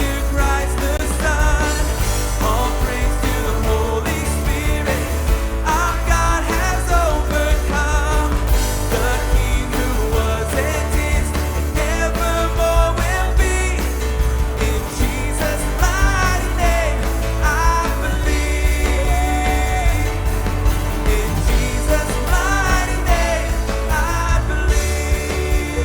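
Live worship band playing a rock-pop song, with a steady drum beat, bass, guitar and piano under voices singing the melody.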